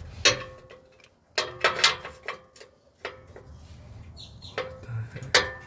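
Metal tools clinking against metal while an exhaust oxygen sensor is worked loose under a car: about six separate sharp clanks, some ringing briefly.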